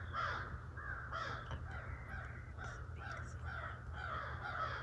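Birds calling over and over, about two calls a second, each call dropping in pitch, the calls overlapping in a steady run.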